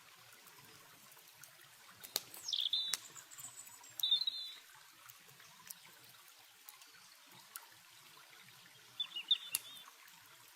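Small birds calling in short bursts of quick chirping notes, three times: about two seconds in, around four seconds in, and near the end. Underneath is a steady hiss of running water, with a few sharp crackles from a campfire.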